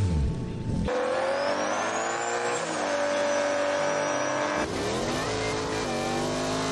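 Car engines revving, with pitch glides, in several abruptly cut sections: a car passing with falling pitch at the start, then engine tones rising and holding.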